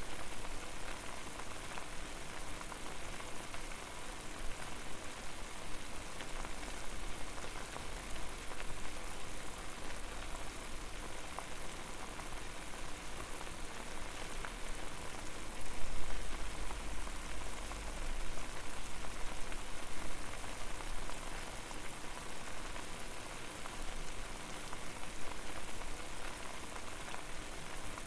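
Water at a full boil over a fire: a dense, steady bubbling crackle. A brief louder low rumble comes a little past the middle.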